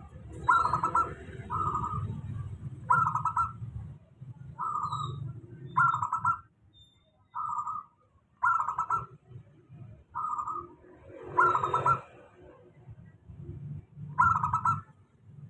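Local zebra dove (perkutut) singing: a run of short, rapidly trilled coos, about ten of them, coming in uneven groups with brief pauses between.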